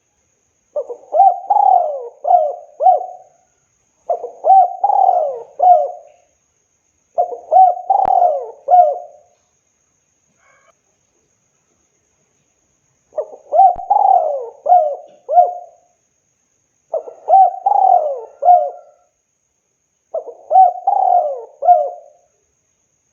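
Spotted dove singing its cooing song: six phrases of about two seconds each, every one a run of three or four falling coos, repeated every few seconds with one longer pause in the middle.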